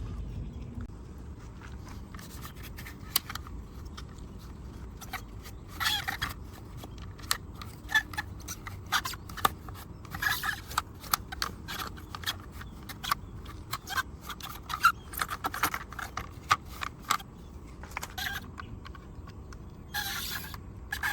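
Irregular small clicks, taps and short scrapes from hands cleaning a diecast model car, coming thickest through the middle.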